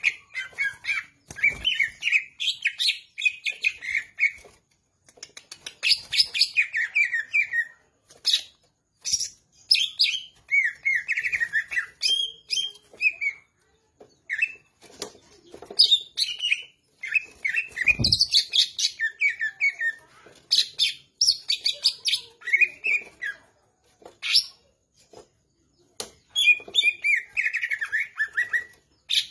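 Green leafbird (cucak ijo) singing: bursts of fast, varied chirps and warbled phrases a few seconds long, with short pauses between them. Two soft low thumps, one near the start and one about two-thirds of the way through.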